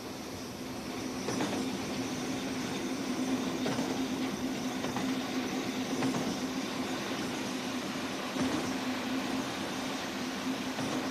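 Locomotive running along the track: a steady engine hum over rumbling wheel-and-rail noise that grows louder in the first second or so, with a few sharp knocks spaced a couple of seconds apart.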